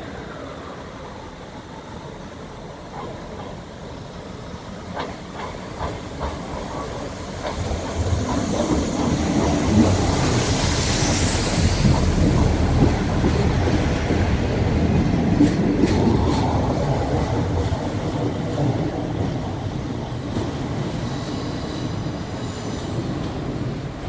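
ScotRail passenger train running slowly along the platform close by. Its wheels click over the rail joints and points, and the rumble builds as it comes alongside. There is a brief high hiss about ten seconds in, and the sound eases off towards the end.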